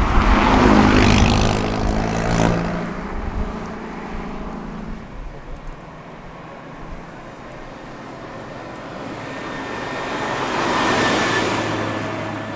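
A car drives past loudly in the opening seconds, its engine note fading as it moves away; after a quieter stretch a second car approaches and passes about eleven seconds in, quieter than the first.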